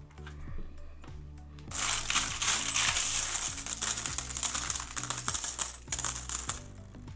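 Loose metal coins clinking and jingling together as a hand rummages through a tub of mixed coins. The jingling starts about two seconds in and lasts about five seconds.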